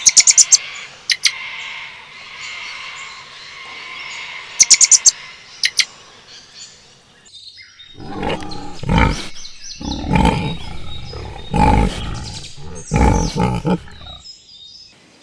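Animal calls: a few sharp, very high chirps in the first half, then a run of about five loud, deep calls in the second half.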